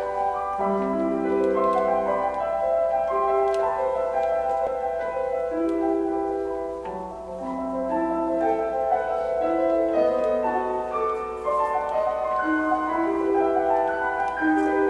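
Live performance of a Japanese choral piece with piano accompaniment: a slow passage of overlapping held notes moving step by step, with a short dip in level about seven seconds in.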